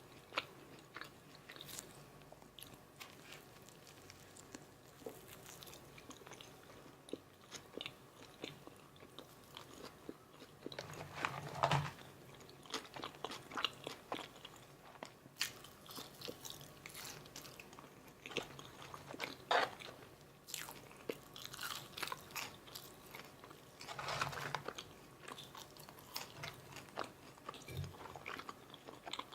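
Close-miked chewing and crunching of a McDonald's Filet-O-Fish meal, many small crackles and mouth clicks, with louder crunchy bites about 12, 20 and 24 seconds in.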